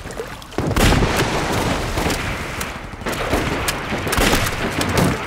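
Heavy battle gunfire, many shots overlapping in a dense fusillade, starting suddenly about half a second in.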